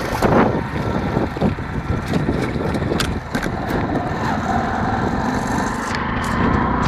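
Motorcycle engine running steadily while riding, with road and traffic noise.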